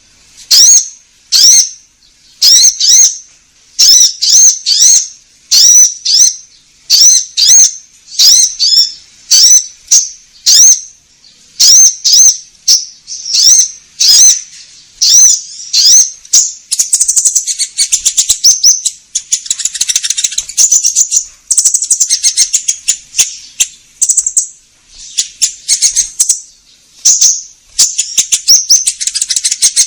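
Konin songbird singing loudly: a run of short, sharp, high chirps about one to two a second, breaking after about 17 seconds into faster, denser chattering twitters. This is a 'gacor' lure song played to call wild konin in.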